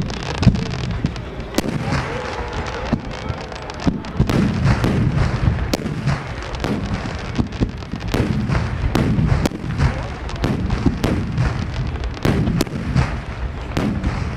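Aerial firework shells bursting in quick succession, many sharp bangs with crackle between them. The bangs come thicker and faster from about a third of the way in.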